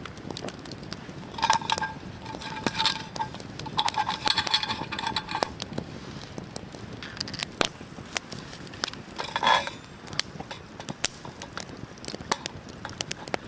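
Wood fire crackling with scattered sharp snaps, and three short bursts of metallic clinking and scraping.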